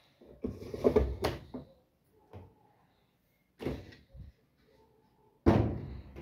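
Knocks and clatter of a lid or door being handled, in a cluster near the start and a short group near four seconds. The loudest is a heavy thud of a lid or door being shut about five and a half seconds in, which dies away over about a second.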